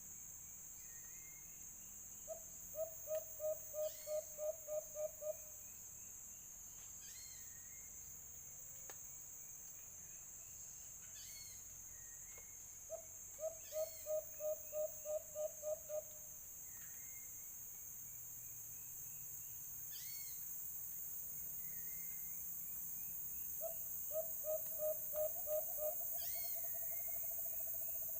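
A white-eared brown dove calling: a run of about eight or nine low hooting notes in quick, even succession, repeated three times roughly ten seconds apart. The last run slides into a long, slowly falling note. A steady high insect buzz and scattered higher chirps from other birds run underneath.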